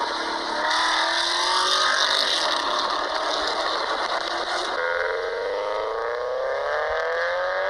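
Car engine and exhaust under acceleration, the engine note climbing steadily in pitch with a hiss above it; from about five seconds in a fresh, slower climb begins.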